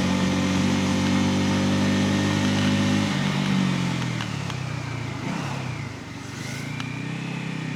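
Bajaj Pulsar N250's single-cylinder engine running at a steady speed, then dropping in pitch about three seconds in as the bike slows, settling to a lower, quieter note.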